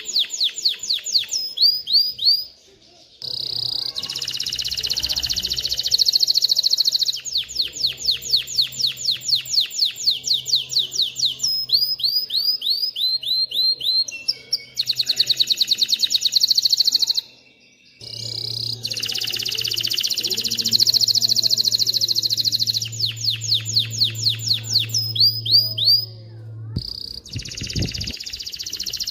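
Male canary singing: long, fast trills of rapidly repeated notes, changing from one rolled phrase to the next, with two short breaks in the song.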